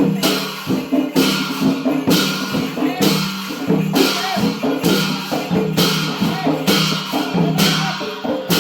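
Traditional Newar percussion music for the Lakhe dance: drums with cymbals clashing in an even beat a little more than once a second.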